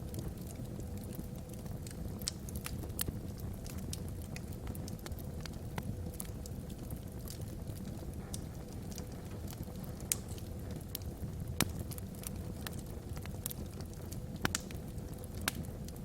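Wood logs burning in a fireplace: a steady low rumble of the fire with frequent small crackles and pops, a few sharper pops standing out near the middle and toward the end.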